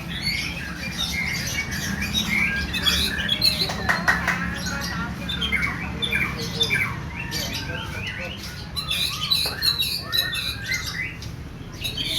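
Bornean white-rumped shama singing a dense, unbroken run of short, harsh squawking phrases and chirps, the rough 'tembakan kasar' bursts of a shama in full contest song, over a steady low hum.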